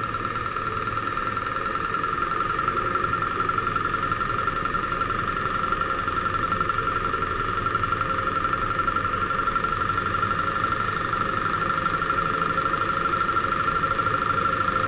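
Small single-cylinder Stirling engine running over a Bunsen burner: a fast, even mechanical rhythm that grows slightly louder as the chamber heats and the flywheel picks up speed. Under it runs the steady hiss of the burner flame.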